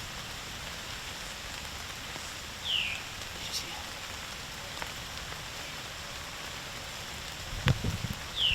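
Steady rain falling, with a short high chirp sliding downward about three seconds in and again at the end, and a few sharp knocks near the end.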